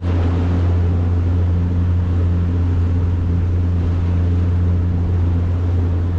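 A motorboat's engine running at a steady cruising speed as the boat travels, a constant low hum with a rushing haze of wind and water over it.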